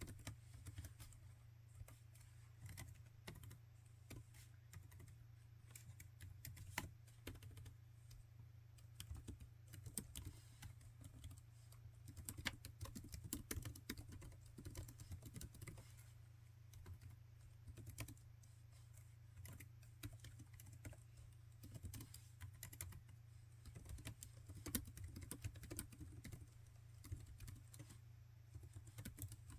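Laptop keyboard being typed on: quiet, irregular key clicks in quick runs with short pauses, over a steady low hum.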